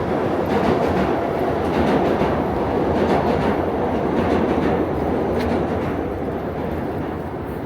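Steady, loud rumbling city noise, easing off over the last few seconds.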